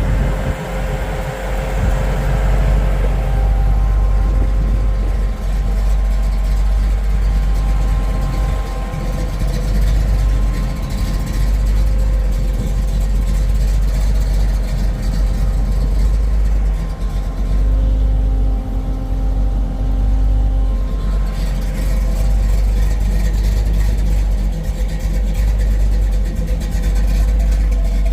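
1968 Pontiac Firebird's engine running steadily, with a constant deep rumble underneath.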